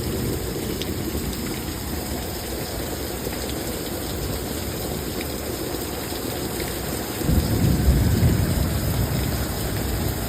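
Heavy rain pouring steadily in a severe thunderstorm; about seven seconds in, a low rumble of thunder starts suddenly and fades over a couple of seconds.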